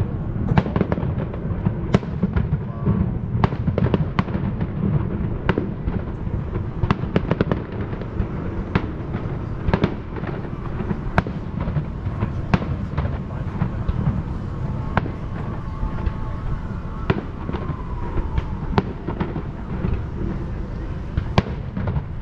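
Aerial fireworks going off in quick succession: a steady run of sharp bangs and crackles over a continuous low rumble.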